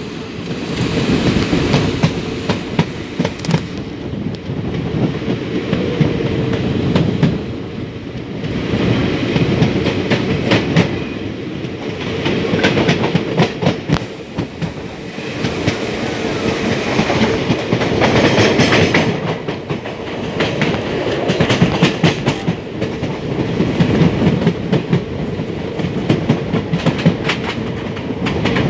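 Indian Railways express train running at speed, heard from inside the coach: a steady rumble and rush of the wheels on the track with repeated clickety-clack over rail joints, swelling and easing every few seconds.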